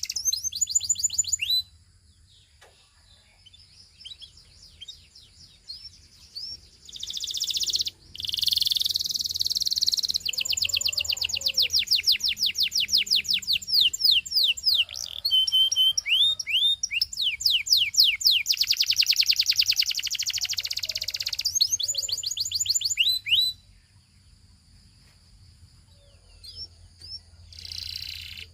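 Belgian singing canary singing in long, fast trills of rapidly repeated high notes, phrase after phrase. Two pauses with only scattered notes break the song, one early on and one near the end.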